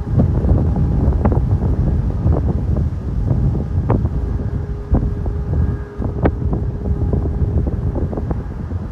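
Strong wind buffeting the microphone: a loud, gusting low rumble, broken by occasional sharp snaps.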